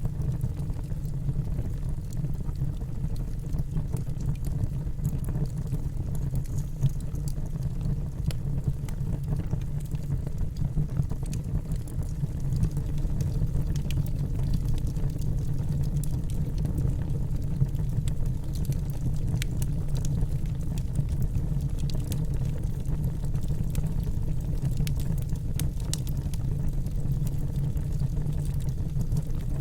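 Bonfire burning, mixed with rain: a steady low rumble with scattered sharp crackles and pops throughout.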